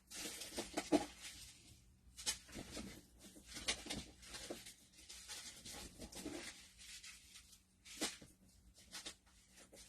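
Small irregular clicks, taps and rustles of craft supplies being handled: packets and containers of adhesive gems picked up and sorted through.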